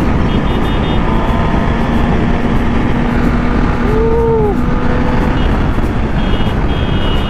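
Kawasaki ZX-10R inline-four running at road speed, its steady engine tone buried under heavy wind rush on the microphone. About four seconds in a brief tone rises and falls, and short high beeps sound near the start and again near the end.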